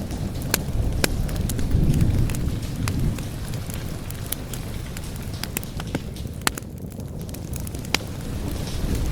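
Wood fire crackling, with scattered sharp pops, over a low rolling rumble of thunder that swells about two seconds in.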